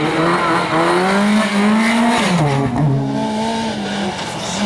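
Rally car engine revving hard at speed, its pitch climbing for about two seconds, dipping sharply and recovering, then holding steady.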